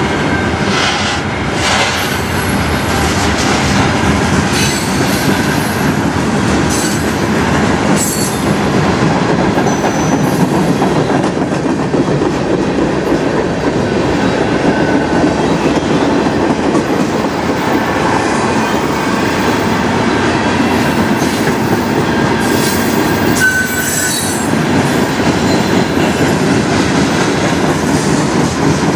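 Freight cars of a long manifest train rolling past close by: a steady rumble of wheels on rail, with clicks from the rail joints and a few brief wheel squeals.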